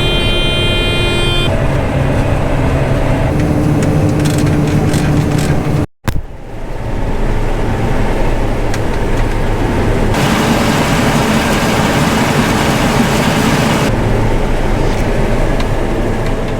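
A John Deere 9500 combine running under harvest load: dense, steady machine noise, with a few steady tones over it in the first second or so. The sound cuts out sharply for an instant about six seconds in, then the same steady running carries on.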